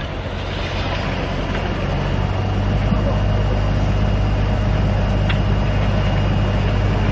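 Heavy vehicle engine running steadily, a low hum under a wash of noise, growing slightly louder after the first couple of seconds.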